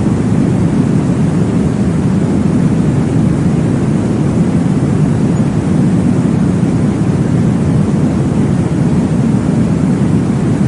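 Steady, deep rushing noise from a baby sleep-aid white-noise track, weighted toward the low end like a muffled whoosh. It is even throughout, with no distinct beat or change.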